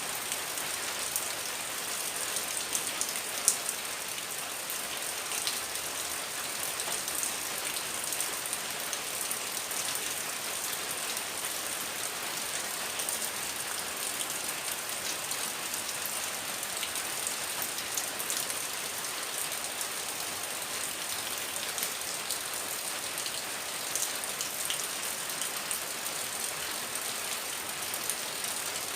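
Heavy rain falling steadily: a dense, even hiss with scattered closer drops ticking, and one louder tap about three and a half seconds in.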